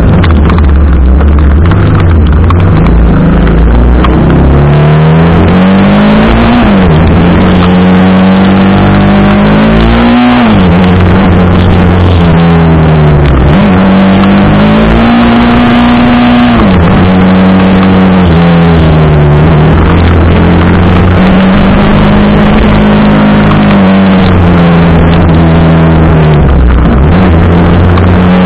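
TVS Apache RR 310's single-cylinder engine pulling under way, its revs climbing and dropping back several times as it shifts through the gears, over constant noise.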